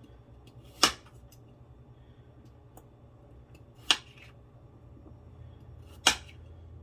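Kitchen knife chopping through radishes onto a cutting board: three sharp chops, a few seconds apart, over a faint steady hum.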